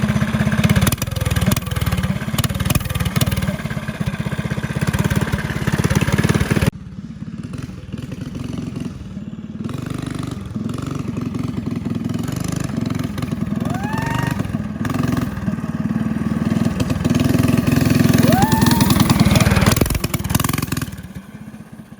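Go-kart's single-cylinder 270cc engine with a loud aftermarket exhaust, revving hard. It then runs at a lower level for a while, grows louder again and dies away near the end as the kart makes a run.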